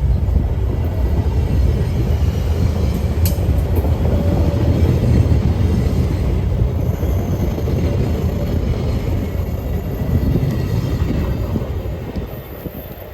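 A train rolling past on the tracks: a steady low rumble that fades away near the end.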